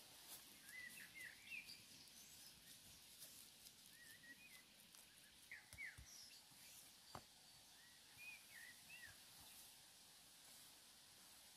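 Faint birdsong: small birds chirping in short phrases every couple of seconds over quiet outdoor ambience, with one soft knock about seven seconds in.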